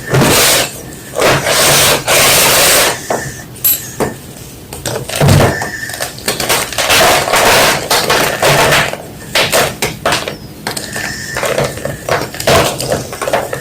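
A block of white gym chalk being crunched and crushed: repeated loud crunches and crumbling, some short and some drawn out, with brief pauses between.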